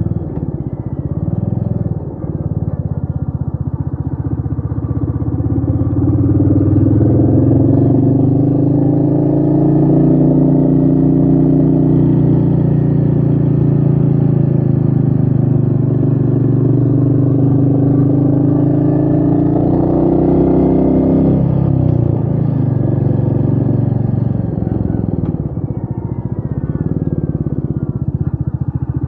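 Royal Enfield Meteor 350's single-cylinder engine pulling under throttle, with wind noise. Its revs climb over several seconds and hold steady, then drop sharply a little past the middle, as with a gear change or the throttle closing, and wander at lower revs.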